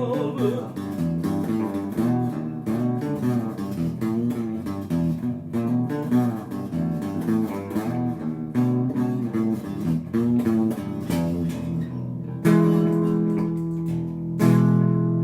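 Instrumental music on guitar and bass guitar: a held sung note dies away at the start, then a busy run of quick picked notes, then two ringing strummed chords near the end.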